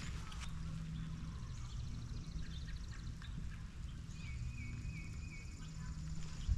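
Birds singing outdoors: a short phrase of three wavering whistled notes, heard about four and a half seconds in, and a fast, even trill about two seconds in, over a steady low background rumble.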